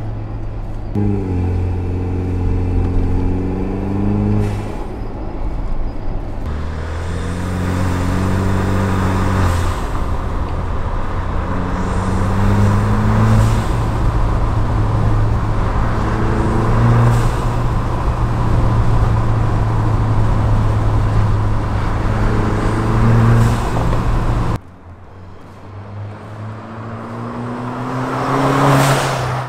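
Jeep Wrangler JL's 2.0-litre turbocharged four-cylinder accelerating through the gears, heard from inside the cabin, at first with the windows up and then, from about 6 s in, with the windows down and more wind and road noise. The engine note rises in each gear and drops at each shift, with a short hiss from the dual-port blow-off valve venting as the throttle closes. Near the end it is heard from the roadside as the Jeep drives past, its note rising to a peak with one more vent hiss.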